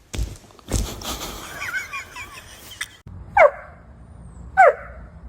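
Dog barking: three short, high barks with a quickly dropping pitch, about a second apart, after two thumps near the start.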